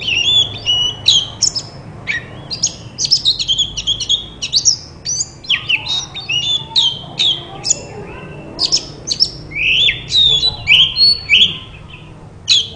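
Oriental magpie-robin (kacer) singing: a fast, unbroken stream of varied whistled notes, many sliding up or down in pitch, which breaks off shortly before the end.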